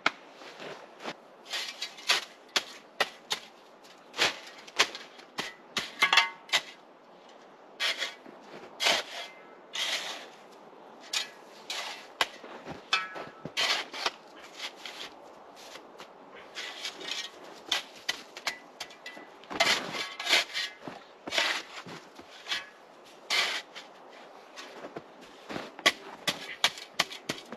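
Dry dead spruce wood being broken up for firewood: a long irregular run of sharp cracks and knocks, one to three a second, some much louder than others.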